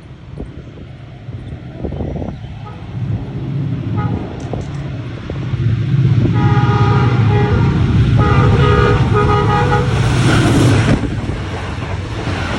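Passenger train's locomotive horn sounding as an express train runs through a station at speed: a short toot about four seconds in, then two long blasts. Under the horn the train's rumble builds and stays loud, then drops off sharply near the end as it goes by.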